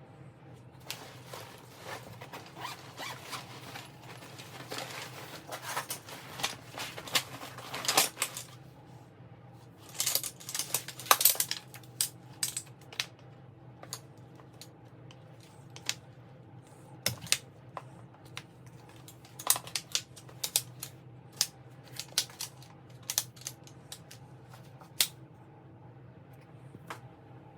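Small objects being handled: a run of clicks, taps and light rattles, busiest in the first half and thinning out later, over a faint steady hum.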